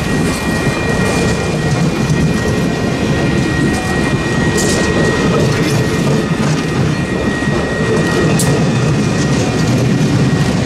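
Passenger cars of a train rolling past at close range: a steady heavy rumble of wheels on rail, with a steady high ringing tone from the crossing signal and two sharp clicks, one about halfway through and one near the end.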